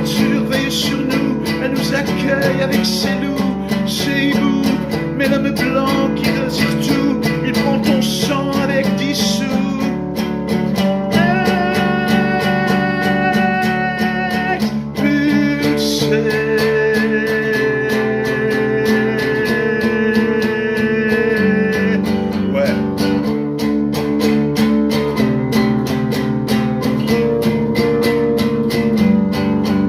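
Acoustic guitar strumming under a singing voice, a slow folk song with long held notes.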